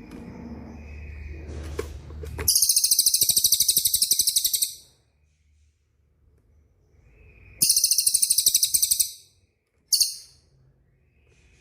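Songbird's fast, high-pitched rolling trill, repeated in three bursts of about two seconds, two seconds and a fraction of a second, with pauses between; the notes come about ten a second. It is a 'rol speed' tutor song played for training white-rumped shamas. A low hum underlies the first couple of seconds.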